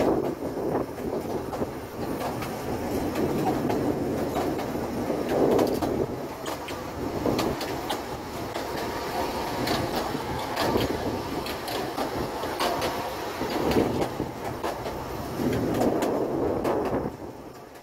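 Narrow-gauge steam train heard from inside a moving carriage: steady running noise from the wheels on the track, with many sharp clicks and rattles and swells every couple of seconds.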